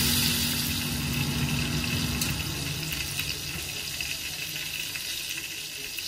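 Beef steaks sizzling as they fry in olive oil and butter in a pan, a steady hiss of spitting fat. A low steady hum underneath stops about two seconds in.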